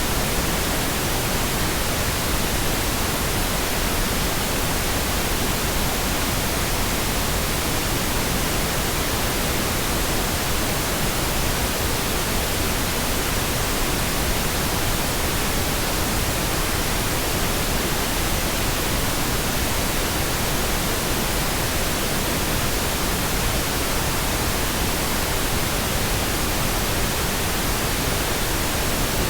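Steady synthetic pink noise: an even, unchanging hiss spread across the whole range from deep rumble to high treble.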